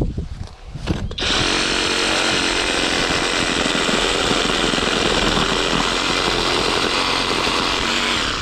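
Skil cordless brushless reciprocating saw starting about a second in and running steadily at full speed, cutting through a tree branch, then stopping right at the end.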